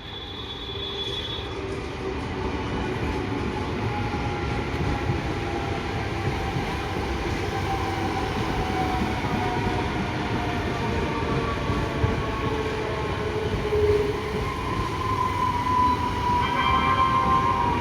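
Train passing close by: wheel-on-rail rumble that builds over the first couple of seconds and then holds loud and steady, with whining tones sliding slowly in pitch.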